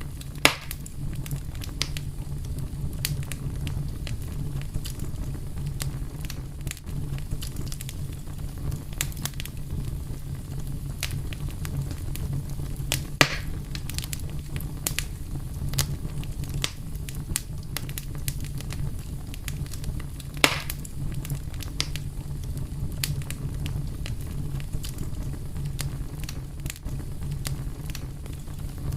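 Wood fire burning with a steady low rumble and frequent small crackles, and three louder pops: about half a second in, about thirteen seconds in, and about twenty seconds in.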